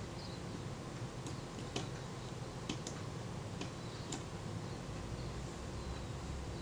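Scattered small sharp clicks of metal camera parts being handled as the shutter cocking rack is fitted into a Kodak Retina IIIc body, about half a dozen irregular ticks over a faint low hum.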